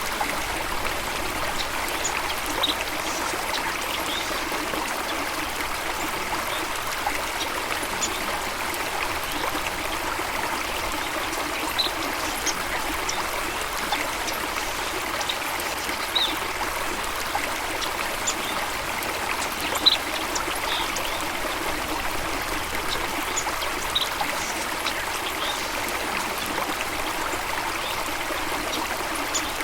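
Running water of a stream, a steady trickling rush, with short high-pitched blips every few seconds.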